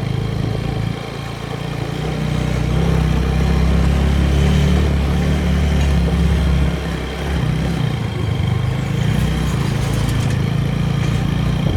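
TVS Apache motorcycle running under way, a steady low engine rumble mixed with wind rumble. It grows louder a few seconds in and eases off briefly past the middle.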